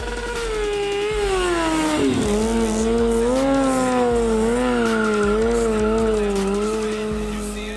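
Kawasaki Ninja ZX-6R 636's inline-four engine held high in the revs during wheelie stunts, its pitch wavering up and down as the throttle is worked. The revs dip about two seconds in, then keep wavering at a lower level.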